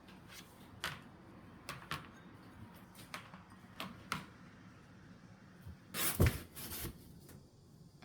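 Scattered light clicks and knocks of objects being handled, with a louder clatter about six seconds in.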